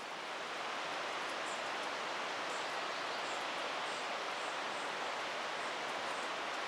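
Steady, even hiss of water outdoors, with a few faint high chirps over it.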